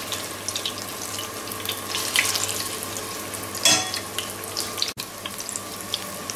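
Mozzarella in carrozza frying in sunflower seed oil in a pan: a steady sizzle with crackles, and one brief louder moment about three and a half seconds in.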